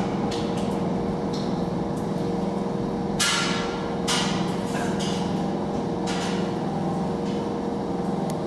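A steady mechanical hum holding two level tones, with a handful of sharp knocks or clinks scattered through it, the loudest about three seconds in and another about a second later.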